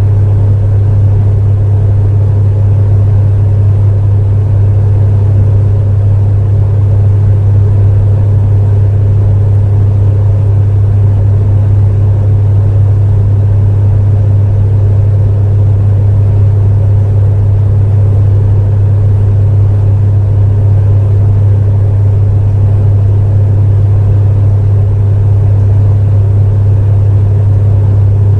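Space heater running steadily: a loud, constant low hum, with a fainter even whoosh of fan air over it.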